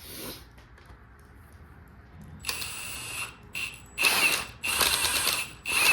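A power ratchet runs in four short bursts from about halfway through, working a stuck, probably rusty bolt out of the Ford 351 Modified engine.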